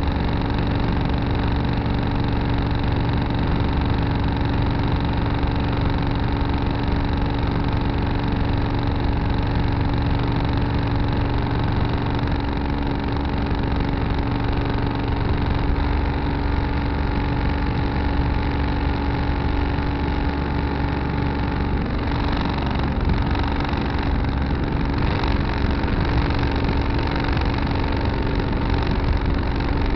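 Tractor engine running steadily, heard from a camera mounted on the tractor; its low note shifts slightly a little under halfway through.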